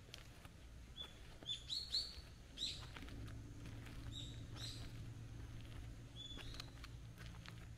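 Small birds chirping: short, high chirps, a quick run of them about two seconds in and more scattered later. A low steady hum comes in about three seconds in.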